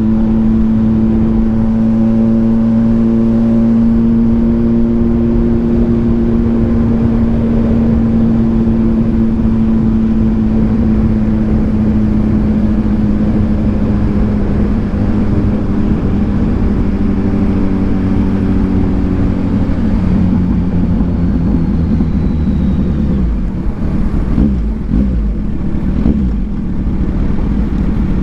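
2022 Kawasaki Ninja 1000SX's inline-four engine, breathing through an AR aftermarket exhaust, running steadily at cruise with its note sinking slowly lower. Near the end the note wavers and dips briefly before settling.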